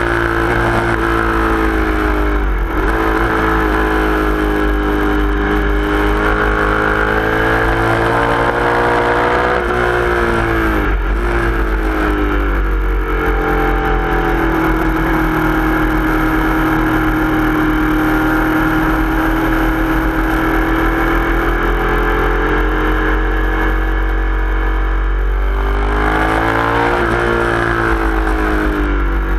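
Sport motorcycle engine running hard at high revs, heard from onboard. Its pitch sinks sharply three times, a couple of seconds in, about eleven seconds in and near the end, as the rider slows and changes gear for corners, then climbs again.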